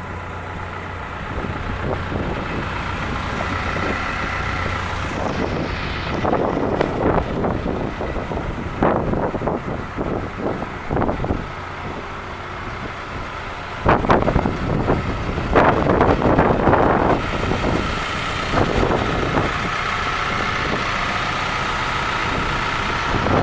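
Case 210 excavator's diesel engine running steadily, with irregular louder surges of noise over it.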